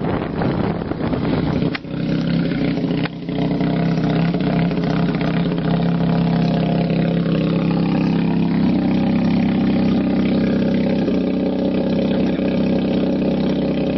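VAZ 2108 with a Wankel rotary engine running: rushing wind noise at first, two brief drops in level about two and three seconds in, then a steady engine drone.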